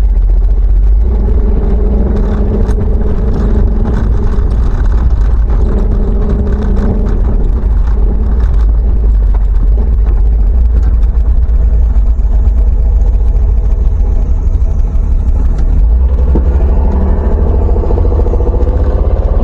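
Motor vehicle engine running under a heavy low rumble, its pitch rising over the last few seconds as it revs up.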